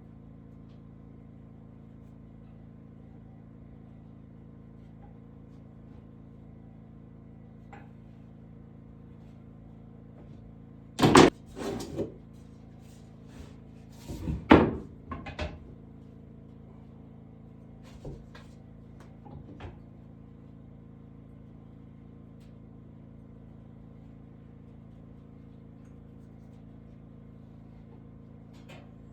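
Sharp knocks and clatter, the two loudest about eleven and fourteen and a half seconds in, each followed by a few smaller clicks, over a steady low hum.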